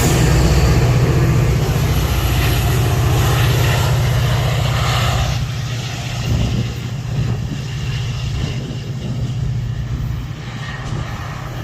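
Metra diesel commuter train running at the platform, its locomotive engine giving a steady low drone with a fast even pulse. The rushing noise of the train is loudest for the first five seconds, then eases off.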